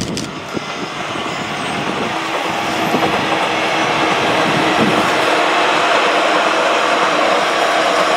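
Six-car JR 115 series electric multiple unit passing close by: the running noise of the train on the rails grows louder over the first three seconds, then holds steady, with a steady hum underneath.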